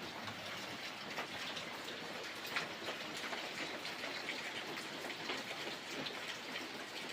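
Steady rain falling: a continuous hiss dotted with sharper individual drop ticks.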